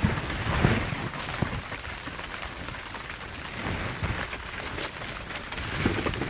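Heavy rain falling steadily, with many individual drops tapping close by.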